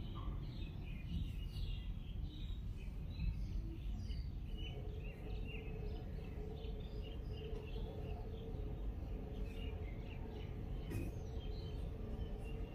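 Outdoor background of small birds chirping over a steady low rumble. A steady low hum comes in about four and a half seconds in and keeps going.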